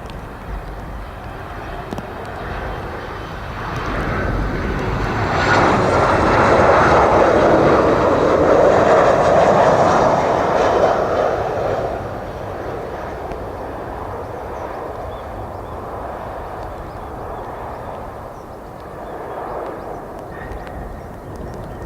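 Boeing 737-800 jet airliner landing, its CFM56 engines heard as a jet rumble. The sound swells over a few seconds and is loudest for about six seconds as the plane passes, then drops back to a steady, lower rumble.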